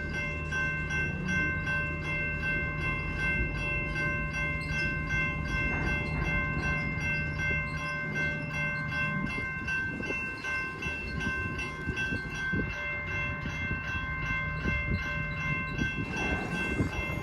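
CSX welded rail train crawling slowly, with a steady low hum and several steady high-pitched tones held over its rumble.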